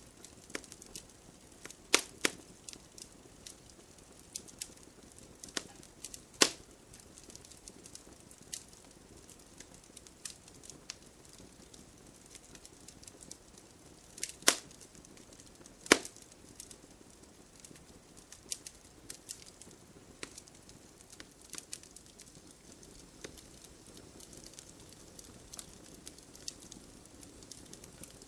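Wood fire burning, crackling: scattered sharp snaps and pops of burning wood over a faint hiss, with four louder pops, about two, six, fourteen and sixteen seconds in.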